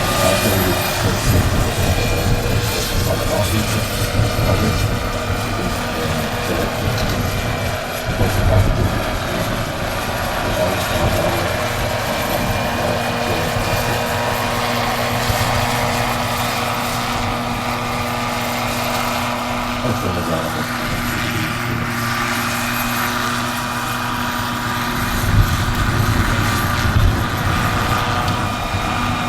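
Turbine-powered RC scale model helicopter (Agusta AW109 K2) running: a steady high turbine whine over the low beating of the main rotor.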